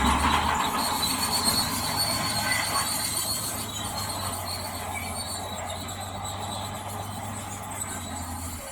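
Crawler bulldozer running, its steel tracks squealing and grinding over a steady engine hum. The sound grows gradually fainter.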